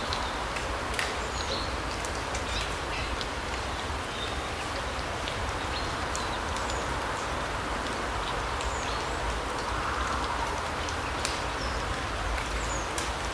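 Forest ambience: a steady rushing background with a low rumble, with short high bird chirps and calls scattered throughout and a few sharp ticks.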